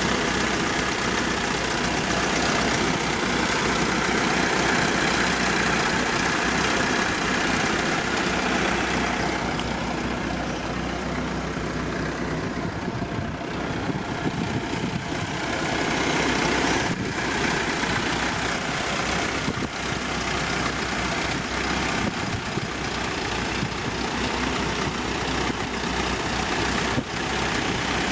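A Triumph TR7's four-cylinder engine idling steadily.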